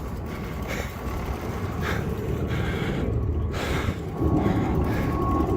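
Wind and ride noise from cycling, heard as a steady low rumble on the phone's microphone with a few light rattles. It grows louder about four seconds in, where a faint steady whine joins it.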